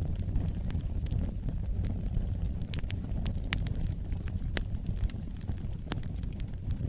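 Wood campfire burning, crackling and popping in sharp irregular snaps over a low, steady rumble.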